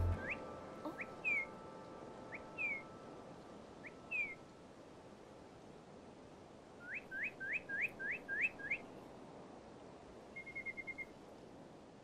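Small bird calling: short clear whistled notes, some rising and some falling, then a quick run of about seven rising notes, and a brief fast trill near the end, over a faint hiss of ambience.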